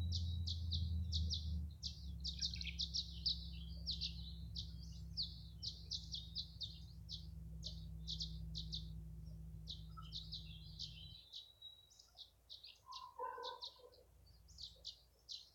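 Tree swallows twittering: a rapid, near-continuous run of short high chirps. A low steady rumble sits underneath and stops about eleven seconds in.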